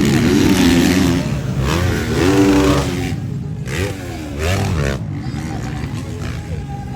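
Motocross motorcycle engines revving, their pitch rising and falling over and over with the throttle, loudest in the first few seconds.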